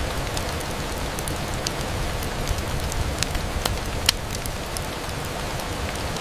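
Steady rain on a window, with scattered sharp crackles over it; the loudest crackle comes about four seconds in.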